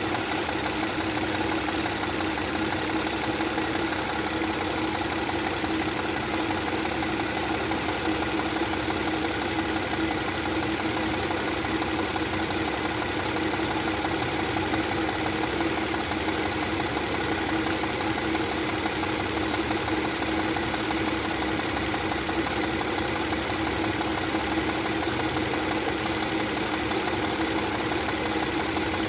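Audi 3.0 TFSI supercharged V6 (EA837) idling steadily with its intake hose off, during a carbon-cleaner treatment poured into the intake.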